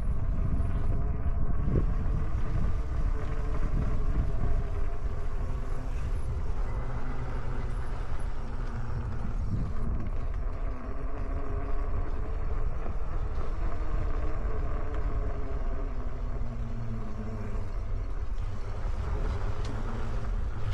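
E-bike under way: a hub motor whining, its pitch drifting up and down with speed, over a steady low wind rumble on the microphone.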